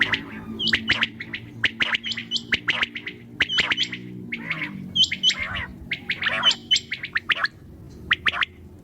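Quail calling: quick clusters of short, sharp chirping notes, some in twos and threes, repeating with short gaps. A low steady hum sits under them for the first half and fades out about four seconds in.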